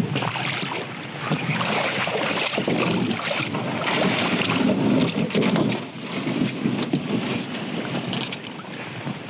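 Boat under way: a steady rush of water and wind noise buffeting the microphone, broken by many short knocks and thumps.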